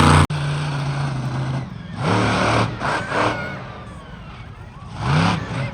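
Motorsport engines running and revving, with a steady drone followed by several rising-and-falling surges in pitch.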